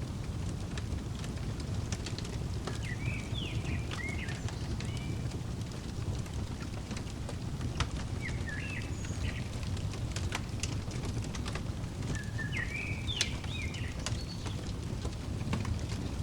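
Fireplace crackling, with scattered sharp pops over a steady low rumble, while a songbird sings three short chirping phrases several seconds apart.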